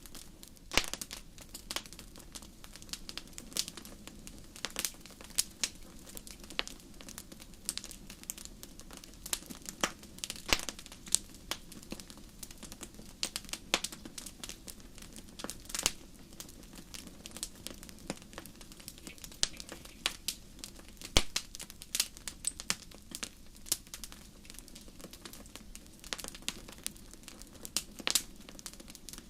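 Wood fire crackling in a fireplace: a steady stream of irregular sharp pops and snaps over a low, even rumble of the burning logs.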